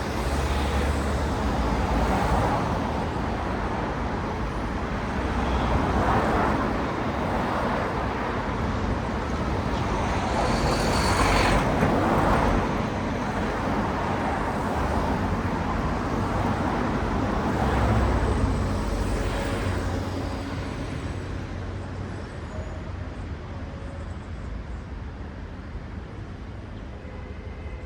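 City road traffic: cars passing one after another with a tyre-and-engine swoosh, several louder pass-bys swelling and fading. The traffic thins out and grows quieter over the last few seconds.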